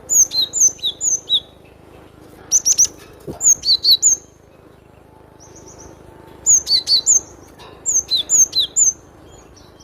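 Cinereous tit (glatik batu) singing: four bursts of quick, high, crisp notes, each sliding downward, repeated in short phrases with brief pauses between them.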